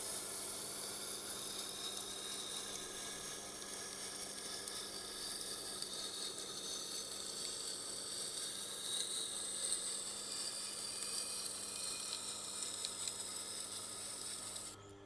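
Steel knife edge being ground on a Tormek's 320-grit diamond wheel: a steady grinding hiss over the machine's motor hum. The hiss stops suddenly near the end while the hum goes on.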